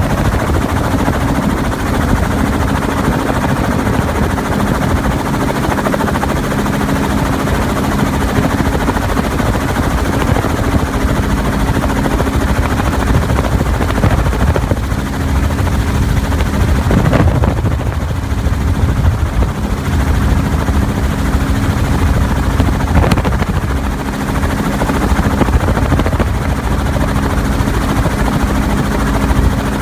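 News helicopter in flight: loud, steady rotor and engine noise with a constant low hum.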